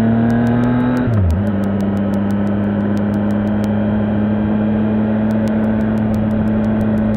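Triumph Tiger 800 XRT's three-cylinder engine under way: the revs climb, an upshift about a second in drops the pitch, then the engine holds a steady pitch at cruising speed.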